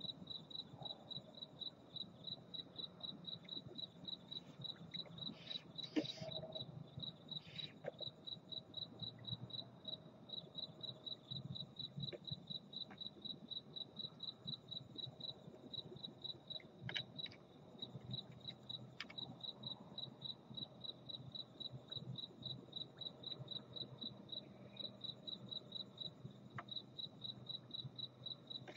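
A cricket chirping steadily, a high even chirp repeated about four times a second. A sharp click stands out about six seconds in, with a few fainter clicks and brief rustles later.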